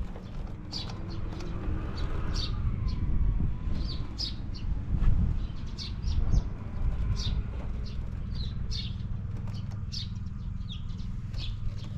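Honda Motra AD05's small four-stroke single-cylinder engine idling steadily and quietly, with no abnormal noise. Birds chirp repeatedly over it in short, high notes.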